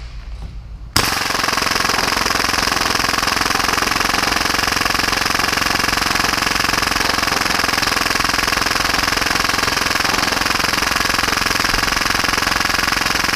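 Full-auto Tokyo Marui Hi-Capa airsoft pistol, tuned to about 30 rounds per second, firing one long unbroken burst. The rapid, even rattle starts abruptly about a second in.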